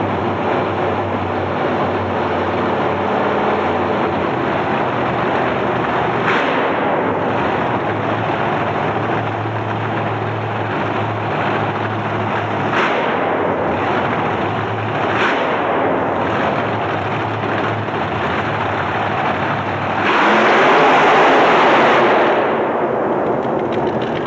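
Loud race-truck engine running hard, with a few sharp pops and a louder surge about twenty seconds in.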